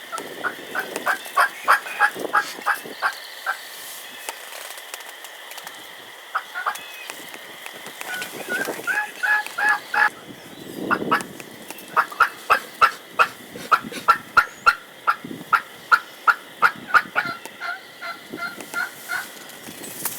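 Wild hen turkey giving raspy plain yelps, close to a typical excited yelp: three runs of evenly spaced yelps at about three a second, the last and longest of about twenty notes. Wind gusts can be heard between the runs.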